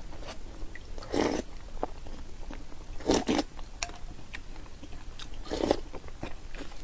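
Close-miked chewing and mouth sounds of someone eating whole boiled eggs, with soft clicks throughout and three louder mouth sounds about two seconds apart.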